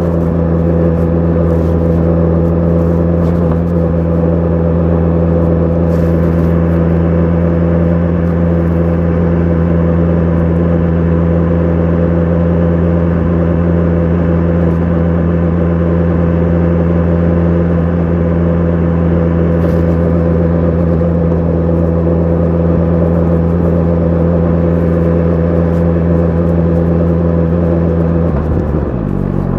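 BMW S1000 RR inline-four engine with an Akrapovic exhaust, held at steady revs while cruising. Near the end the pitch falls sharply as the revs drop.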